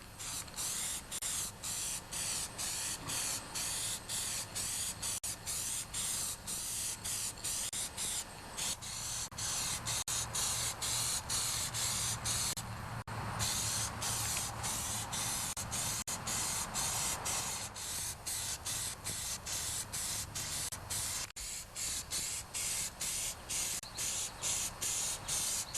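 Paint being sprayed onto a tractor hood in short, quick passes: a hiss that breaks off briefly about twice a second, putting on the first coat of green paint.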